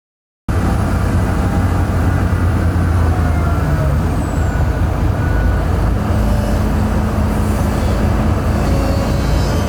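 Heavy diesel engine of a construction machine running, a loud steady low drone that cuts in abruptly about half a second in; the engine note shifts about six seconds in.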